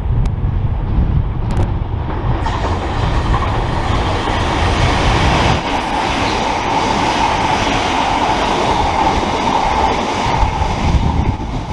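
Electric multiple-unit train running along the platform, its wheels and rails making a broad rushing noise with a steady whine through it, which builds from about two seconds in. Wind buffets the microphone at the start.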